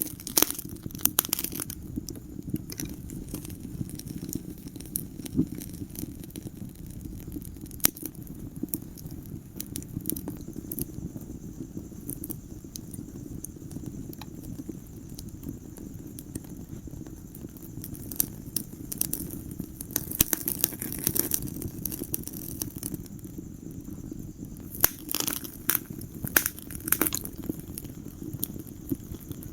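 Wood fire burning in a fireplace: irregular sharp crackles and pops over a steady low rumble of the flames, with thicker clusters of pops at the start and again in the second half.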